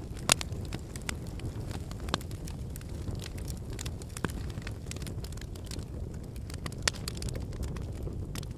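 Wood campfire burning: a steady low rumble of flames with frequent sharp crackles and pops of the firewood, the loudest pops about a third of a second in and near seven seconds in.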